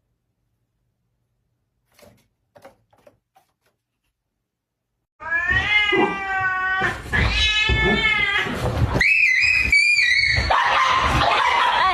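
A cat yowling: two long, wavering yowls starting about five seconds in, then shorter, higher cries, followed by a loud rough noise near the end. A few faint clicks come before the yowling.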